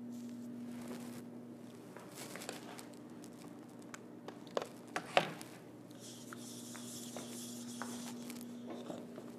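Handling and tool noises of painting work: a few sharp taps and clicks about halfway through, the loudest just after, then a steady high hiss for about two seconds, over a low steady hum.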